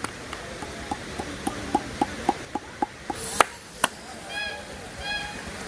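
Quick rhythmic hand slaps of a chopping oil massage, about four a second, with a couple of louder smacks. Near the end come three short, honk-like pitched calls.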